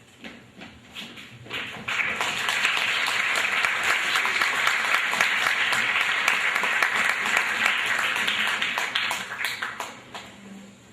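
Audience applauding: a few scattered claps, then dense steady applause from about two seconds in that dies away near the end.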